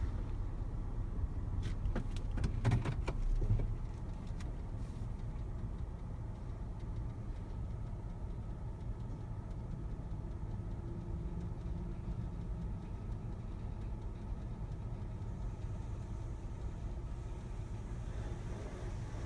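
Car engine running at idle as a steady low rumble, with a few sharp clicks about two to three seconds in.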